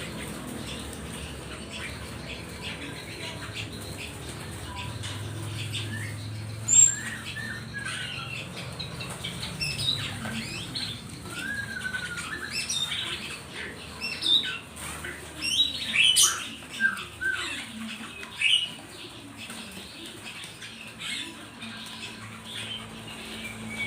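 Many small songbirds chirping and calling in short, rapid notes, with wing flapping and a few sharp clicks, busiest in the middle.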